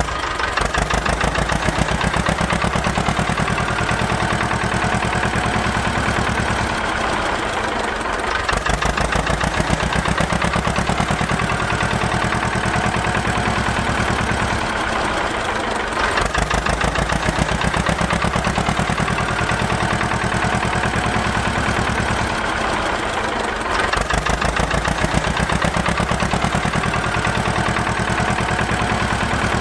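Small engine of a homemade mini tractor running with a rapid, even chug. It eases back briefly three times, about eight seconds apart, then picks up again.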